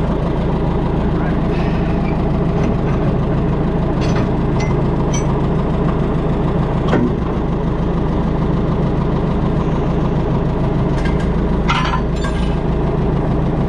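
An engine running steadily at a constant speed, with a few sharp clicks and knocks over it, the loudest near the end.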